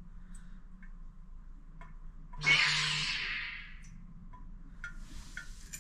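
A toilet's fill valve comes on with a sudden hiss of water about two and a half seconds in, fading over a second and a half, and a fainter hiss starts near the end. This is the tank topping itself up after water has leaked past a faulty flapper into the bowl.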